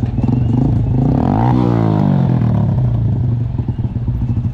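Motorcycle engine running steadily on the road, with another vehicle passing close about a second and a half in, its sound swelling and then fading.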